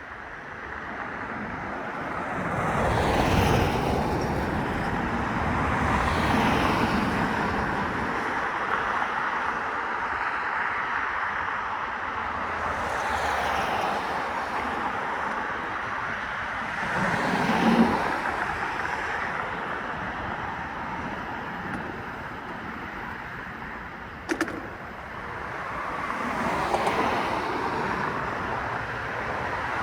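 Road traffic: several vehicles passing one after another, each swelling and fading over a steady rush of noise. There is one sharp click about two thirds of the way through.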